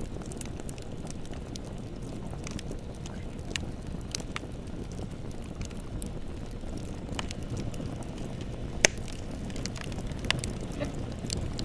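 Bonfire burning with a steady low rumble of flames and scattered crackles, one louder pop about nine seconds in.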